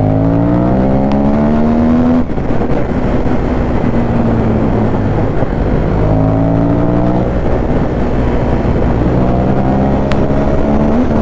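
Ducati Monster 821's L-twin engine pulling under hard acceleration, its pitch climbing and then dropping at gear changes about two seconds in and again near the end, over steady wind noise.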